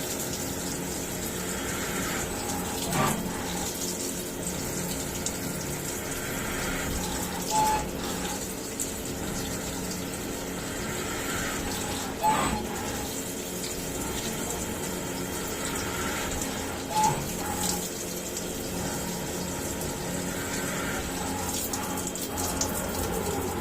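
CNC milling machine cutting the hub bore of a car wheel: a steady hum and hiss, with a short sharp tick about every four to five seconds.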